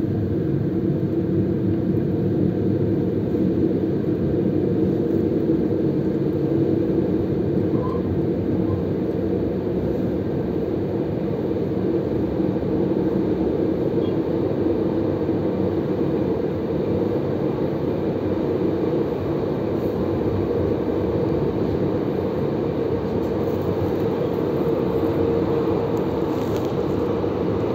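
A passenger train running along the track, heard from inside the carriage: a steady, unchanging running noise.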